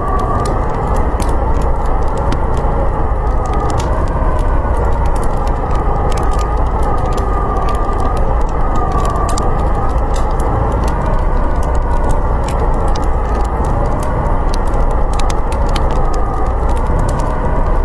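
Blizzard wind howling steadily, its pitch wavering slowly up and down, with a wood fire crackling throughout.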